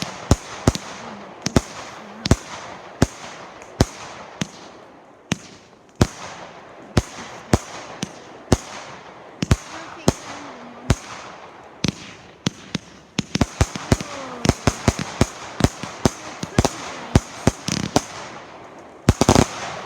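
A firework cake (barrage box) firing: a long run of sharp bangs with crackling between them. The bangs come faster in the second half and end in a dense cluster near the end.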